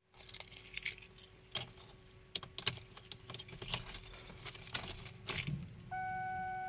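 Car keys jangling and clicking in the 2004 Ford Taurus, with a steady electronic tone coming on near the end.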